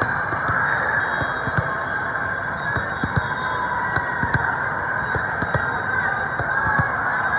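Volleyball tournament crowd chatter, steady throughout, with a dozen or so sharp smacks of volleyballs being hit scattered through it.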